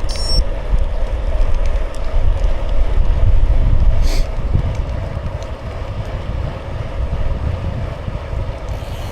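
Wind buffeting the microphone of a moving bicycle: a low, steady rumble, with the bike's tyres rolling on the road underneath. There is a brief high chirp right at the start and a short hiss about four seconds in.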